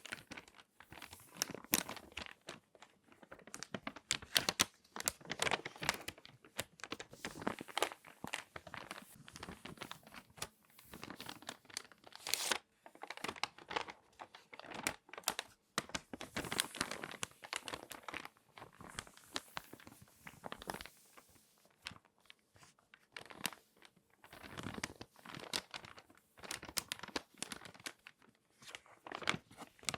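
Glossy magazine pages being folded and handled, with irregular bursts of paper crinkling and crackling and brief pauses between them.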